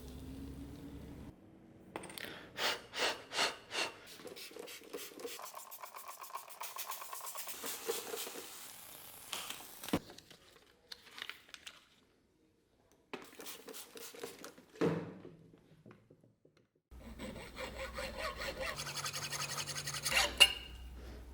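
Hand-tool strokes worked back and forth, a dry rasping and rubbing at about three strokes a second. The strokes come in several short runs broken by edit cuts, with a sharp click about ten seconds in and a brief dead silence.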